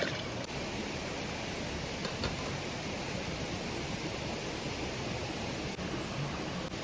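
Steady rushing of a forest stream or river, with a faint click a little over two seconds in.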